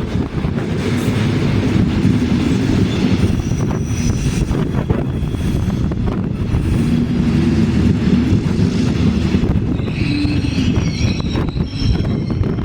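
A train running along the rails with a steady heavy rumble, with high wheel squeal rising over it near the end.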